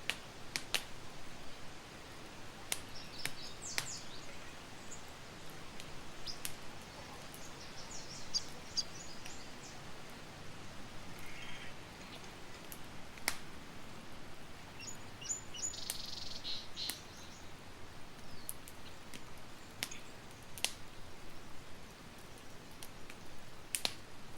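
Campfire crackling, with sharp pops and snaps every second or so over a steady hiss. Birds chirp in short bursts a few times over the fire.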